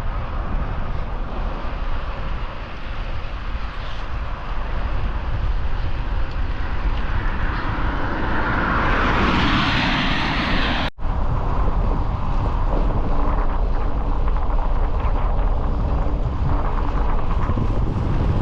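Steady rush of wind on the microphone while riding a road bike at speed. It swells to a louder, brighter rush about nine to ten seconds in, then cuts out for an instant near eleven seconds before carrying on.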